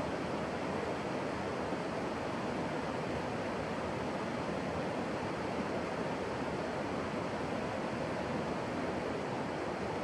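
Steady rushing of running water, an even noise with no distinct splashes or events.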